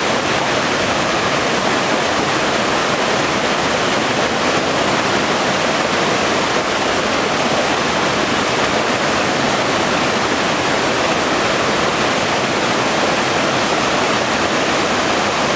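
Small mountain-stream waterfall: water splashing and rushing steadily over rocks, a loud continuous rush.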